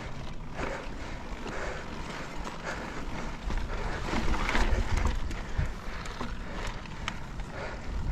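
Mountain bike rolling over slickrock, with scattered knocks and rattles from the bike and low wind rumble on the microphone, loudest about four to five seconds in.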